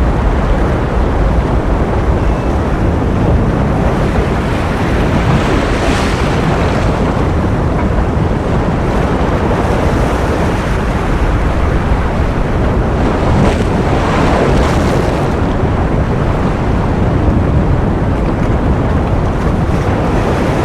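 Ocean surf as a continuous rush of waves, heaviest in the low end. Brief hissier swells of breaking water come about six seconds in and again around thirteen to fifteen seconds.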